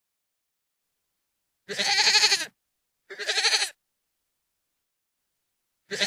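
Goat screaming: loud, wavering bleat-like calls with silence between. One comes about a second and a half in, a shorter one follows a second later, and a third starts near the end.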